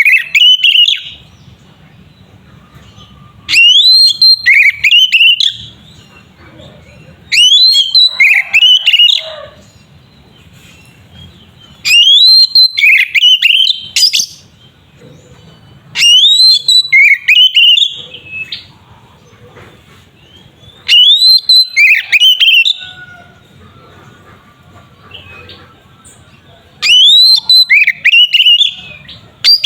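Oriental magpie-robin (kacer) singing loud, whistled song phrases of rising and swooping notes. Each phrase lasts about two seconds, and they repeat about every four to five seconds, six full phrases in all.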